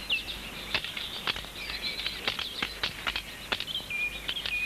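A songbird calling: a run of short high chirps, each dropping and levelling off, with a longer level note near the end. Scattered sharp clicks run through it.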